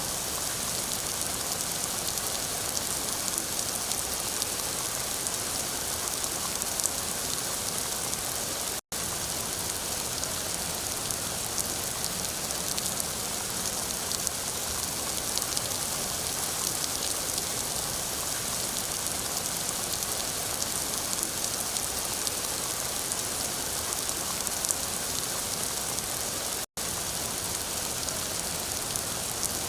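Steady rain falling, an even hiss with fine pattering drops. The sound cuts out for an instant twice.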